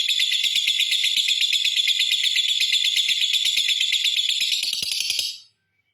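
Lovebird giving its long unbroken chattering trill (ngekek panjang): a rapid, high-pitched rattle of many notes a second that stops abruptly about five seconds in.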